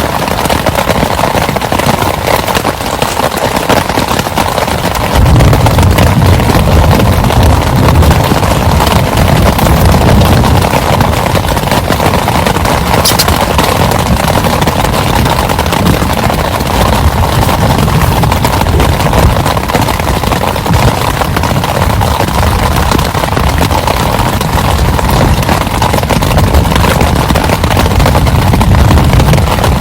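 Heavy rain pouring down, a loud steady downpour, with a deep low rumble that grows stronger about five seconds in.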